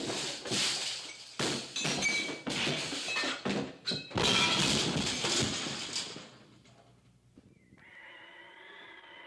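Horses neighing amid a clatter of hooves and movement, loud and jumbled for about six seconds. Then it dies away, leaving a faint steady wavering tone near the end.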